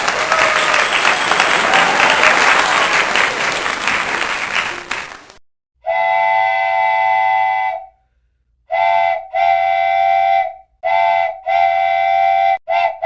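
A loud, dense rushing noise for about five seconds stops abruptly. Then a train whistle sounds as a steady multi-note chord: three long blasts of about two seconds each, followed by two short toots near the end.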